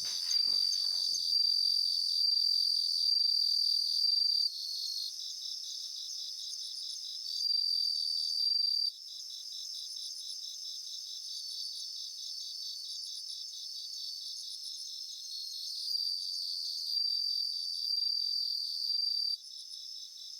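Chorus of crickets chirping: a steady high trill over a fast, regular pulsing chirp. The louder trill stops and starts several times, dropping abruptly about nine seconds in and again near the end.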